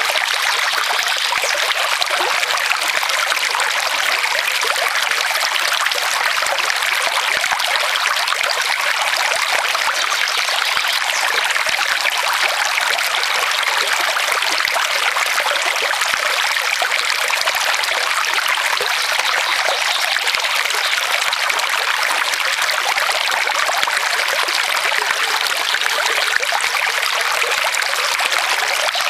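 Forest stream flowing over stones: a steady, even rush of water.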